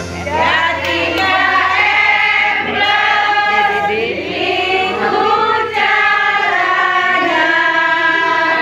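A group of women singing a song together, with held notes and pitch changes throughout.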